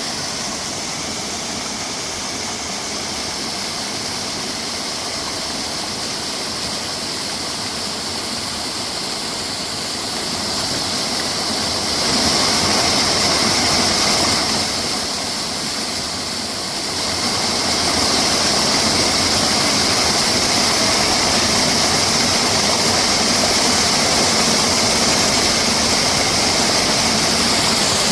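Mountain stream water rushing steadily over rocks, growing louder about halfway through.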